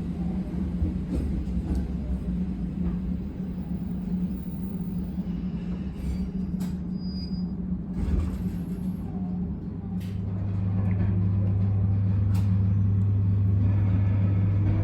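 Abukuma Express 8100 series electric train running, heard on board: a steady rumble and hum with a few sharp clicks. About two-thirds of the way through, a louder low hum sets in, and near the end a whine starts rising in pitch.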